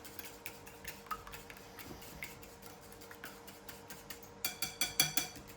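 A fork or whisk clinking against the bowl of beaten egg mixture: faint scattered ticks, then a quick run of about six ringing clinks near the end.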